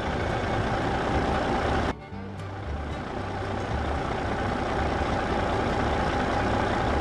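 A steady engine-like running noise, like a vehicle, over background music with a low bass line; both break off briefly about two seconds in.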